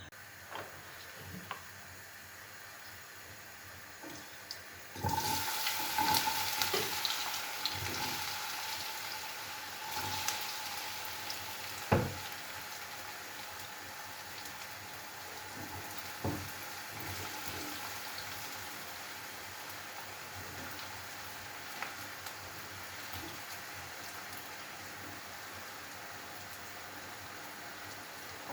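Food frying in hot oil in a pan: the sizzle starts suddenly about five seconds in, loudest at first, then settles to a steady sizzle. A few sharp knocks of a utensil or pan come through it, the loudest about midway.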